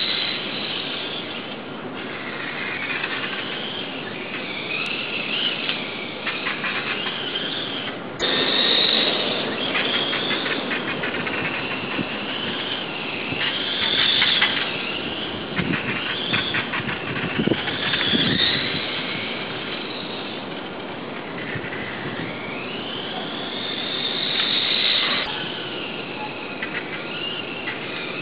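Brushless electric motor of a Kyosho radio-controlled motorcycle whining, its pitch rising and falling again and again as the bike speeds up and slows down, with road noise under it. A sharp knock comes about eight seconds in.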